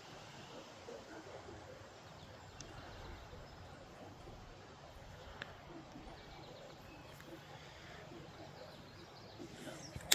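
Faint steady outdoor background noise, with a small tick about halfway through and a sharp click at the very end.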